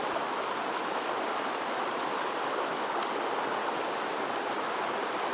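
Mountain stream water rushing steadily over rocks, with two faint clicks partway through.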